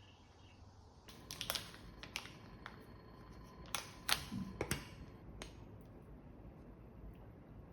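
A scattered series of light, sharp clicks and taps, about eight in a few seconds, over a faint low hum.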